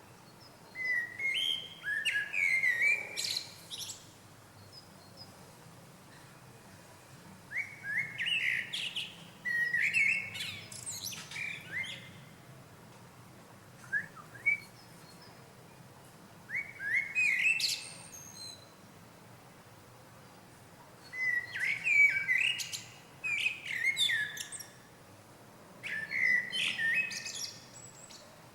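A small bird singing: bursts of quick, varied high chirps and trills lasting a few seconds each, repeated about six times with short pauses between.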